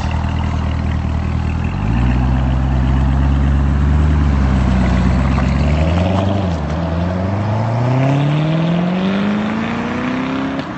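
2019 Corvette ZR1's supercharged 6.2-litre LT5 V8 under way: its note steps up about two seconds in and holds, dips briefly a little past halfway, then climbs steadily in pitch as the car accelerates, dipping once more near the end.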